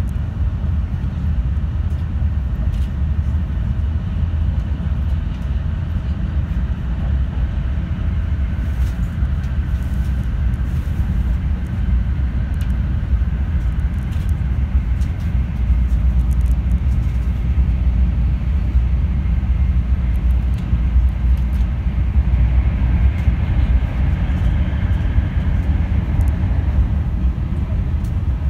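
Interior running noise of a 700 series Shinkansen train at speed, heard inside the passenger cabin: a steady low rumble of wheels and running gear, growing a little louder about halfway through.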